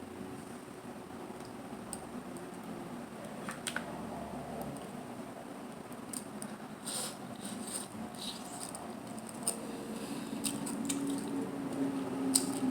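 Close-up eating sounds from a seafood meal of mussels and clams: scattered sharp clicks over soft mouth sounds, growing louder toward the end.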